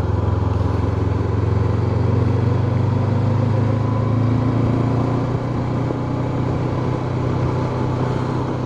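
Honda CB500X's parallel-twin engine running steadily under way, with road and wind noise; the engine note eases slightly about five and a half seconds in.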